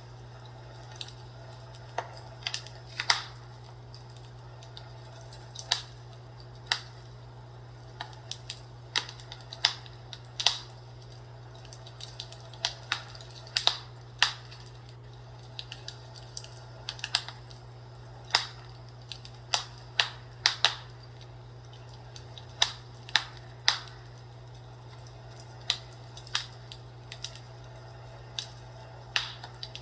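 Fireplace fire crackling with irregular sharp pops and snaps of burning wood, about one or two a second, over a steady low hum.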